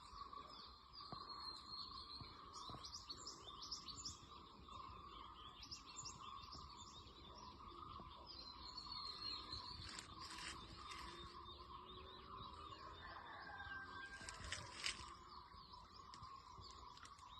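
Birds chirping and calling, faint, over a steady high-pitched drone.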